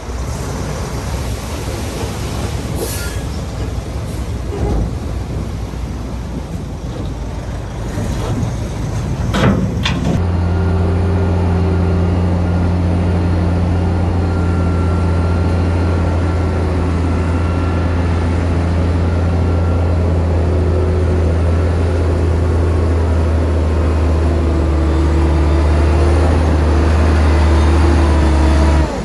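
Heavy diesel engine of a bulldozer running, with a couple of brief squeals in the first ten seconds. About ten seconds in the sound changes abruptly to a steady, deep engine drone, which stops suddenly near the end.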